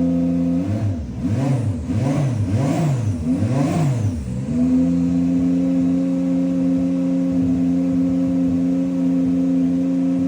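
Subaru BRZ GT300 race car's flat-four engine idling steadily, then blipped through several quick revs over a few seconds, each rising and falling in pitch, before settling back to a steady idle.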